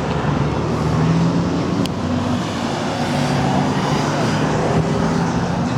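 Steady vehicle noise with a low engine hum that wavers slightly in pitch.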